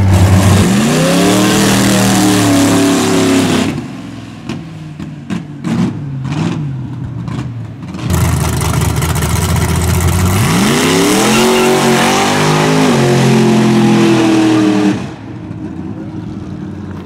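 Car engine pulled hard at full throttle, the revs rising quickly and stepping through gear shifts before lifting off about four seconds in. A second full-throttle pull starts around eight seconds and climbs until it cuts off abruptly near fifteen seconds. These are street-dyno test runs with shifts at about 6,000 rpm.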